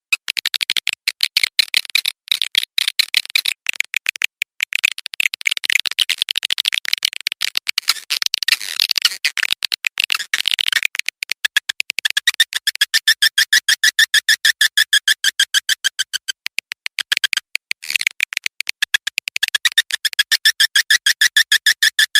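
Swiftlet lure call played through a speaker: a fast, continuous train of short chirps, many per second. From about halfway through, the chirps take on a steadier, more tonal pitch.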